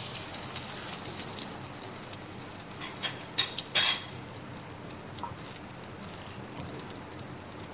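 Chocolate-and-egg-coated bread slices sizzling in desi ghee on a tawa over low heat, with a few sharp clicks of a plastic fork and spatula against the pan about three to four seconds in.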